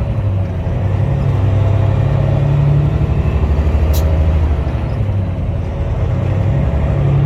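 Peterbilt semi truck's diesel engine running at low speed, its pitch rising and falling with the throttle. A single sharp click about four seconds in.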